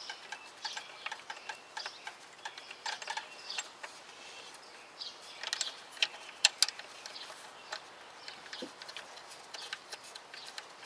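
Irregular small metallic clicks and clinks of nuts, bolts and tools being handled and fitted by hand on a car engine, with two sharper clicks about six and a half seconds in.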